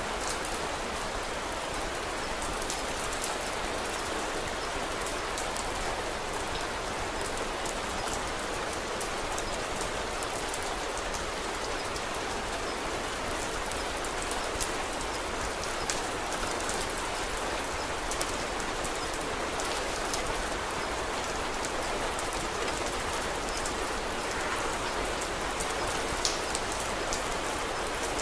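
Steady, even rain falling, with scattered small sharp ticks and crackles over it.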